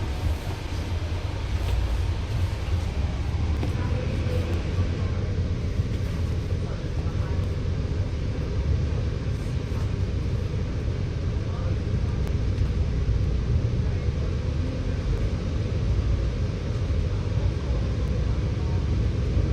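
Scania K94UB single-deck bus under way, its engine and running gear a steady low rumble.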